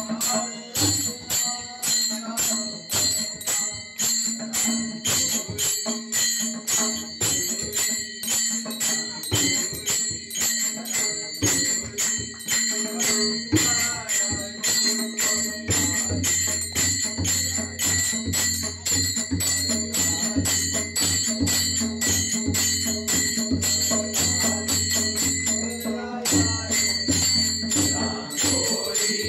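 Devotional bhajan music: small hand cymbals (taal) struck in a fast, steady rhythm, their metallic ringing sustained over a held low drone that grows stronger about halfway through.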